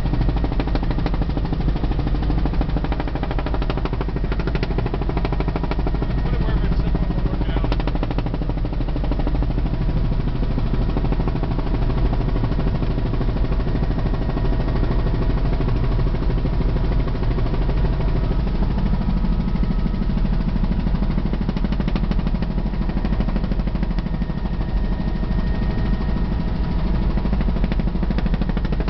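Helicopter in flight: the rotor beating and the engine running at a steady pitch, with a deep low rumble.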